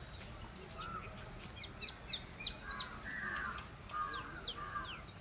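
Birds calling: a run of short, quick high chirps that sweep down in pitch, with rougher calls mixed in, over steady background noise.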